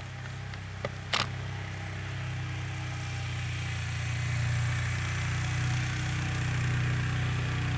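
A vehicle engine running steadily with a low hum, growing gradually louder, with a couple of short clicks about a second in.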